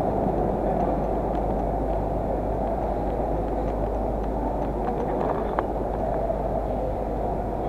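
Steady low rumble of city transport noise, with a few faint clicks about five to six seconds in.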